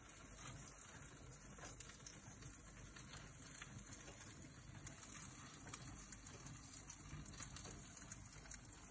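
Near silence: faint room tone with a few small ticks.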